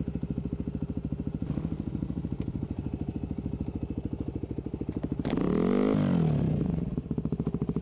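Enduro dirt bike engine idling with a fast, even beat. About five seconds in it is revved for a second or two, the pitch dipping and then climbing, before it settles back to idle.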